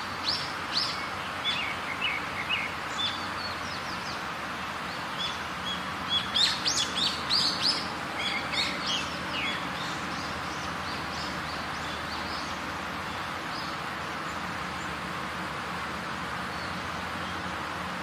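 Birds chirping in short high calls, scattered through the first few seconds and denser about six to nine seconds in, over a steady outdoor background hiss. After that only the hiss remains.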